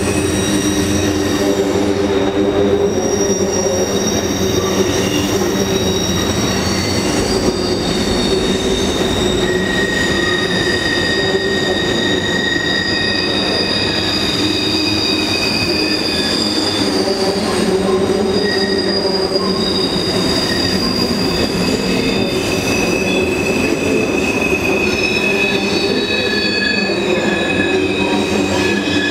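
CP freight train of covered hopper cars rolling steadily across a steel trestle bridge. The wheels keep up a continuous rumble, with high-pitched wheel squeal that comes and goes every few seconds.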